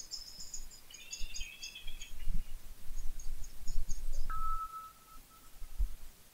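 Small birds twittering in quick high runs for the first two or three seconds, then one steady whistled note held for over a second. Low thumps and rumble from walking with the camera sit underneath.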